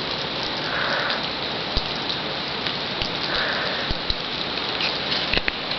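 Freezing rain falling steadily, pattering on ice-coated branches and the ground, with many small scattered ticks of drops and ice.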